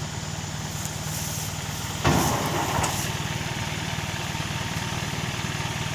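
Truck engine running steadily with a low even hum, with a brief knock or clatter about two seconds in and a smaller one a little later.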